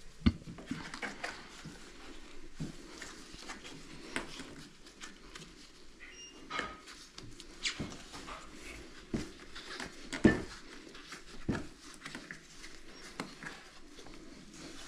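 Hands working on dryer parts during a repair: irregular clicks and knocks with small rustles. The loudest are a sharp knock just after the start and another about ten seconds in.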